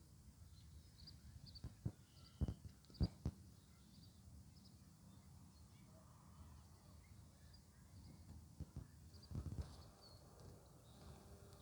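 Quiet outdoor ambience with faint, scattered bird chirps and a few soft low thuds, clustered about two to three seconds in and again near nine seconds.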